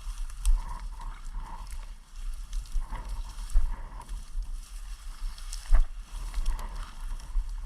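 Footsteps and brush rustling as a hunter pushes through thick grass and weeds, with irregular sharp snaps and a steady low rumble on the microphone.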